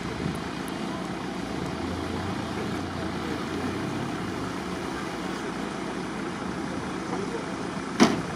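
Subaru Forester's engine running as it drives the off-road course, under steady outdoor noise. A single sharp knock sounds near the end.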